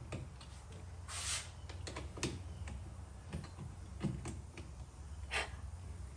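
Scattered light clicks and knocks of hardware being handled, with a short rustling hiss about a second in, over a steady low hum.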